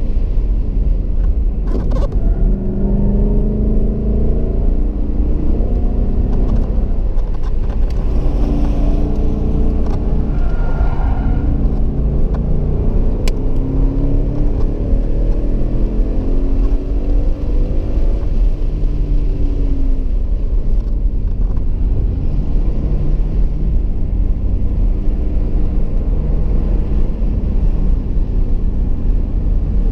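2015 Ford Mustang GT's 5.0-litre V8, heard from inside the cabin on track, its pitch climbing and dropping several times as it accelerates and backs off through corners and gears, then steadier near the end. A constant heavy low rumble of road and drivetrain noise runs underneath.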